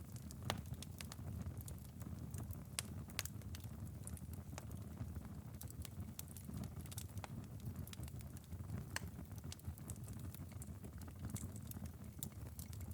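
Wood fire burned down to a glowing ember bed in a fireplace, crackling faintly: scattered small, irregular pops and ticks over a low steady rumble.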